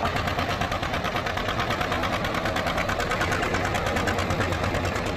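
Steady engine-like running sound with a rapid, even pulse.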